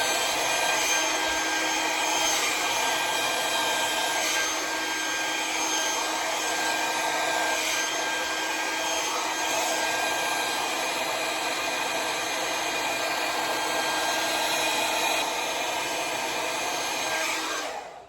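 Conair hair dryer with a nozzle attachment running steadily at a constant whirr, then switched off near the end.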